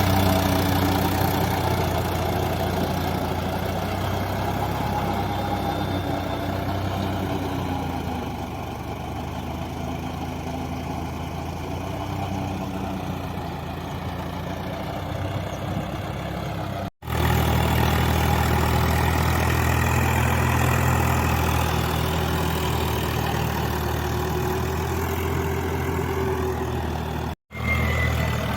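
Swaraj 744 FE tractor's three-cylinder diesel engine running steadily, cut off abruptly twice for an instant, about two-thirds of the way through and near the end.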